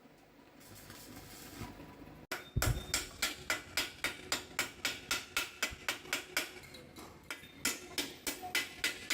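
A hammer striking metal in a steady run of sharp blows, about three a second, some with a short ring, starting about two seconds in with a brief pause near the end.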